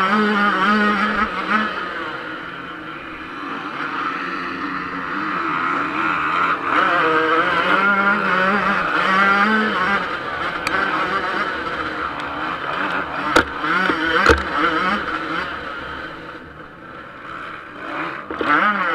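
Yamaha YZ125 two-stroke motocross bike engine racing, revving up and down in pitch as it accelerates and backs off. Two sharp knocks stand out about two-thirds of the way through, and the engine fades for a moment before coming back near the end.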